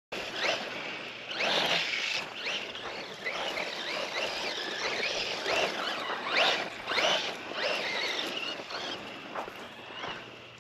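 Losi Lasernut RC truck's 1900 kV brushless electric motor whining up and down in pitch again and again as it is driven hard on the throttle, over a steady hiss.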